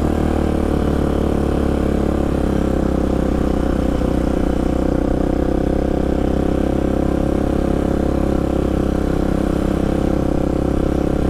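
Polaris Predator sport quad's engine running hard at steady, high revs under throttle, its pitch holding nearly level throughout.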